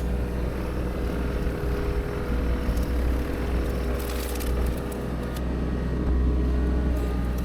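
A heavy machine's engine running steadily with a low, even hum, and a few brief crackles about four seconds in.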